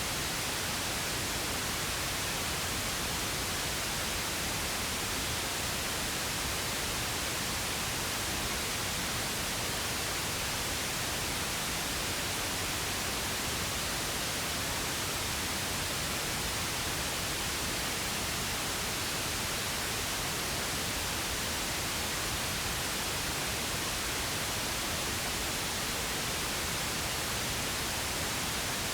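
Steady pink noise: an even, unchanging hiss with no breaks or changes in level.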